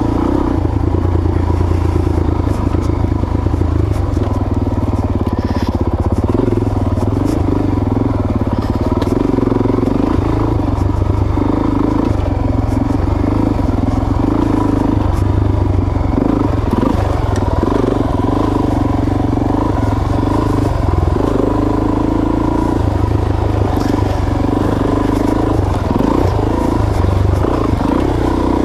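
Suzuki DR-Z400S single-cylinder four-stroke engine running as the motorcycle is ridden along a trail, its note rising and falling with the throttle.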